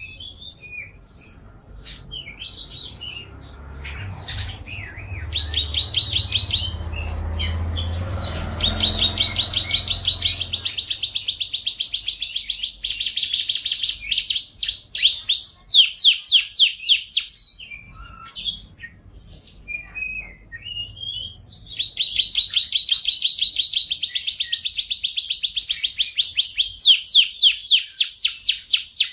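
Domestic canary singing: long runs of fast, evenly repeated trilled notes, one roll after another, with a short break about two-thirds of the way through. A low rumble sits under the song in the first third.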